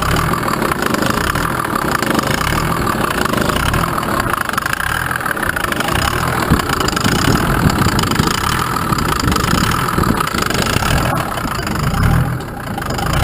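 Mercedes OM603 straight-six turbo-diesel in a GMC CCKW 353 6x6 truck, running steadily, with a brief drop in level near the end.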